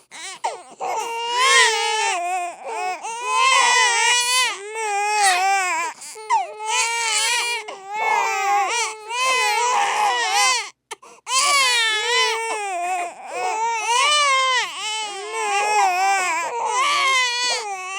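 Babies crying hard: loud, continuous wailing cries that rise and fall in pitch, with a brief break about 11 seconds in.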